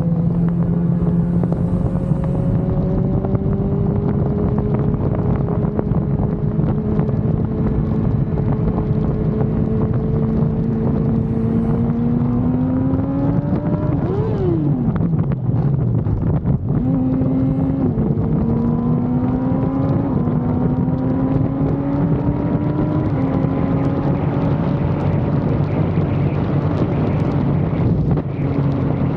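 Sport-bike inline-four engine, a 2005 Yamaha R1, under way with wind rushing over the microphone, its revs climbing slowly. About halfway the revs jump up and fall back sharply, then the engine climbs again in small steps.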